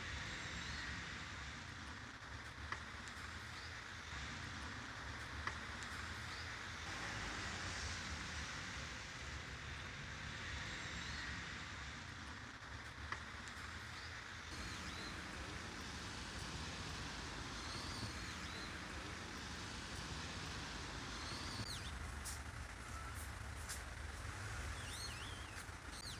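Steady hum of distant road traffic with a low rumble, and a few faint bird chirps near the end.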